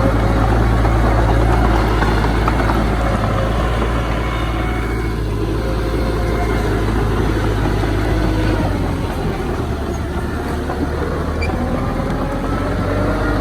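Heavy earthmoving machinery engine running steadily under load, a deep hum, with the engine note rising near the end.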